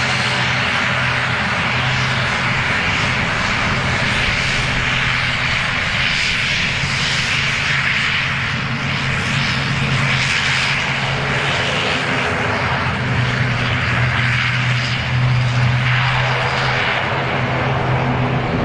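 Aircraft engines running steadily: a continuous low hum with a hiss above it.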